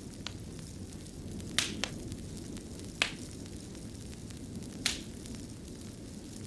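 Wood fire burning in a fireplace: a steady low rumble of the flames with a few sharp crackles and pops, the loudest about one and a half, three and five seconds in.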